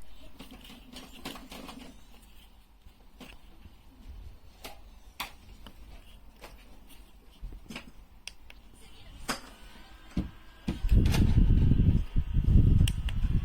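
Scattered clicks and light knocks from handling a small handheld fan. About eleven seconds in, its motor starts with a slowly rising whine, and the airflow rumbles loudly on the microphone.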